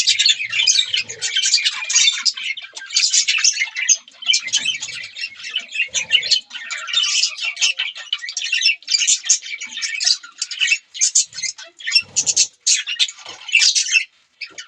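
A flock of budgerigars chattering continuously, with a dense tangle of fast, high chirps, warbles and squawks overlapping without a pause.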